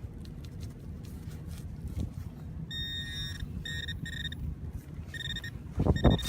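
Metal detector beeping on metal: a run of high beeps, some short and one longer, starting about a third of the way in. Under it, wind rumbling on the microphone, and a few loud knocks near the end.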